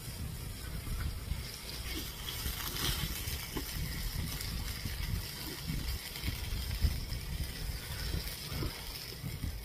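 Chewing and mouth sounds of a person eating, with short scattered smacks and clicks over a steady low rumble.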